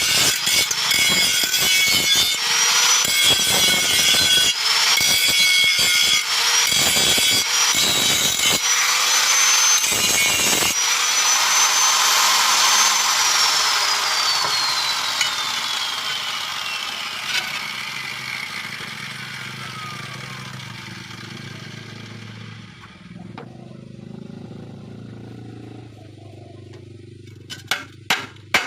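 Angle grinder grinding metal with a high whine, the disc cutting in and out, then switched off and spinning down, its whine falling steadily in pitch as it fades. A few sharp metallic knocks near the end.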